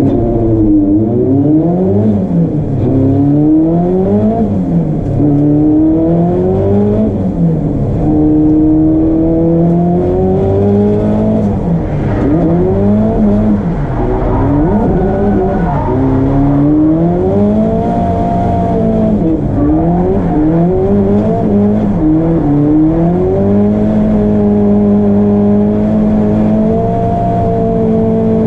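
A drift car's engine on track, its revs repeatedly rising and falling every second or two, then holding fairly steady near the end.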